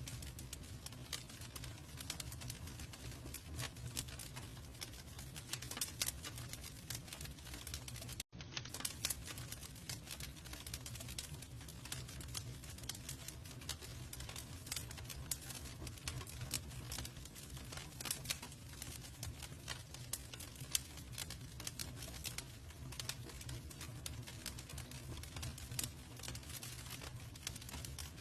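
Campfire crackling: irregular sharp pops and snaps over the low, steady rush of the burning wood. The sound cuts out for a split second about eight seconds in.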